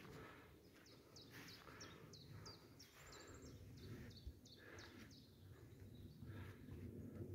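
A small songbird singing a quick series of short, high, falling notes, with a brief fast trill in the middle, over faint footsteps.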